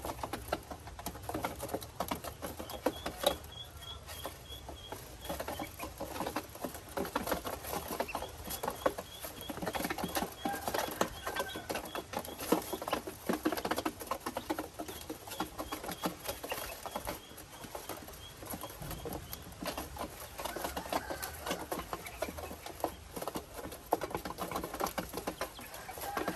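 Ducklings peeping in runs of short, evenly spaced high peeps, over a constant pattering of small taps and scratches from birds moving and pecking.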